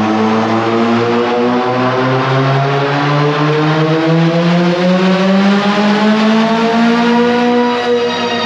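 Turbocharged Honda B18 four-cylinder engine making a dyno pull under load, its revs climbing slowly and steadily, with a brief dip near the end.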